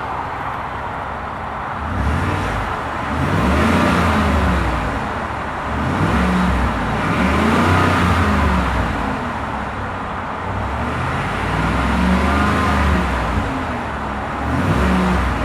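Ford F150's 5.0-litre V8 idling, then revved three times with the truck standing: each rev rises in pitch and falls back to idle over about two seconds, and a fourth begins right at the end.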